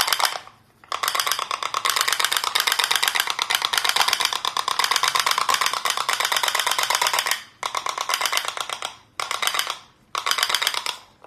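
Candle-heated pop-pop boat running, its boiler giving a rapid, even putt-putt clicking that comes in runs, a long one of about six seconds and then several shorter ones broken by brief silences.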